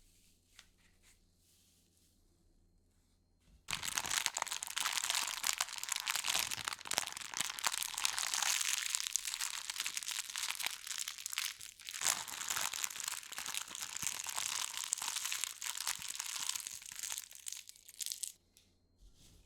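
Packing material crumpled and crinkled by hand: a dense, continuous crackle that starts suddenly about four seconds in and stops about a second before the end.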